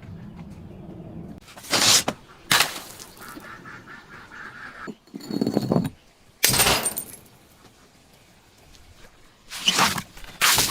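Objects being crushed and broken: six loud crunching crashes, roughly in pairs, with quiet stretches between.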